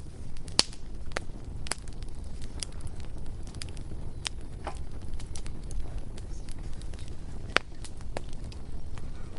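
Bonfire burning with a steady low rumble and irregular sharp crackles and pops, the loudest a little after the start and near the end.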